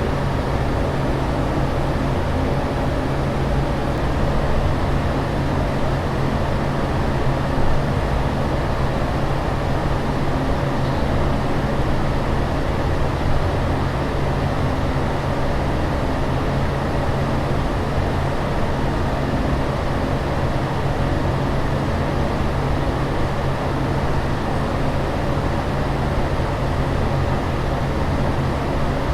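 Steady aircraft cabin noise in flight: an even rushing drone with a constant low hum beneath it.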